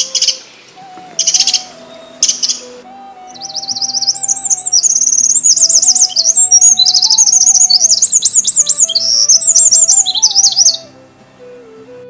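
A songbird chirping a few times, then singing a long run of rapid, high warbling trills that stops about a second before the end. Soft background music with a slow, held melody plays beneath it.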